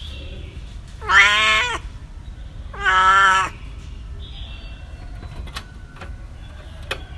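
A cat meowing twice, two loud calls about a second and a half apart, the first a little past a second in and the second near the middle, over a low background hum.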